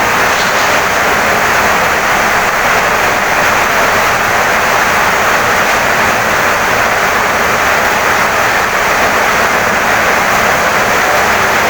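Heavy rain pouring down on a wooden house: a loud, even hiss with no breaks or single drops standing out.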